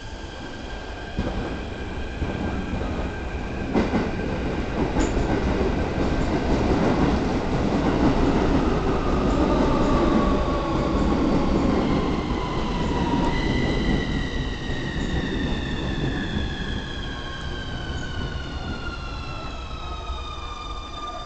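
Keikyu 1500 series electric train pulling out of the station and running past, its running noise and rail-joint clatter building to a peak partway through and then easing, with a sharp bang about four seconds in. Electric motor whine sounds over the rumble, its tones gliding slowly down in pitch in the second half.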